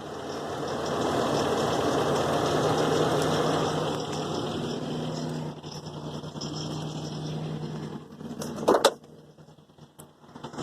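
Truck engine idling with a rattle from the motor whose cause is unknown. The sound swells over the first few seconds, then eases, and a sharp knock comes near the end.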